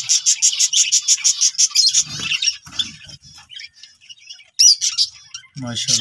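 Small cage birds chirping: a fast, even run of high chirps for the first two seconds, then scattered calls, with one louder call a little over four and a half seconds in.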